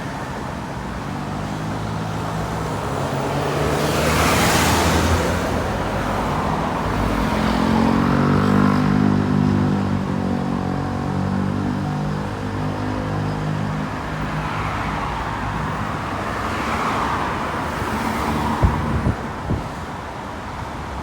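Road traffic going by: cars pass with a swell of tyre and road noise about four seconds in and again near the end, over the steady low running of a heavy vehicle's engine, which is loudest in the middle. A few sharp knocks near the end.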